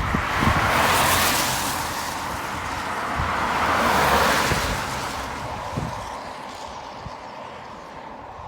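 Jet airliner engine noise: a broad rushing sound that swells twice and then fades, with low thumps of wind on the microphone.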